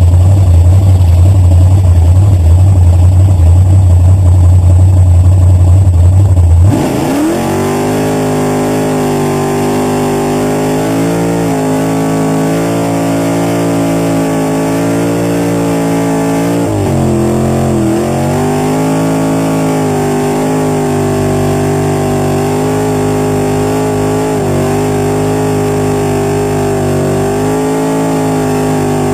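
Supercharged burnout car's engine, loud and close. A heavy low drone for the first several seconds, then the revs climb sharply and are held high and steady through the burnout, with one brief dip and recovery about two thirds of the way in.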